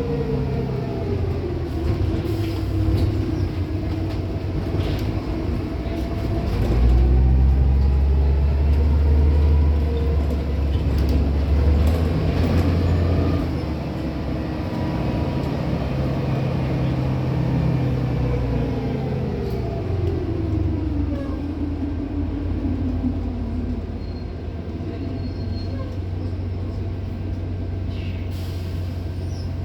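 Van Hool AG280 bus heard from on board, its engine and drivetrain running as it drives, the pitch gliding down and up with changes of speed and gear. A heavier, louder rumble comes from about 7 to 13 seconds in, as the bus pulls hard.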